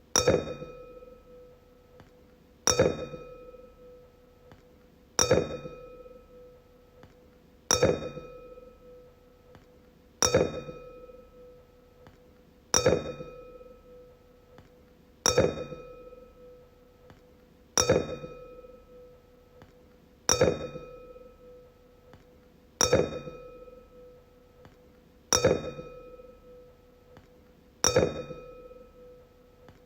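Wine glass struck about every two and a half seconds, twelve times. Each tap rings out on one clear tone with higher overtones and fades before the next.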